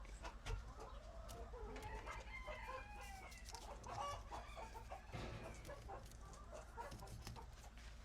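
A flock of chickens clucking and calling, many short calls overlapping, busiest in the middle, with scattered sharp taps among them.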